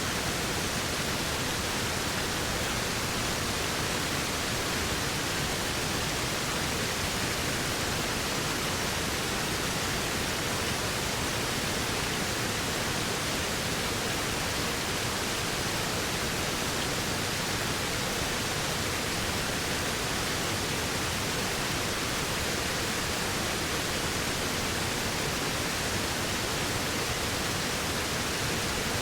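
Waterfall: a steady, unchanging rush of falling water, an even hiss with no separate splashes or changes.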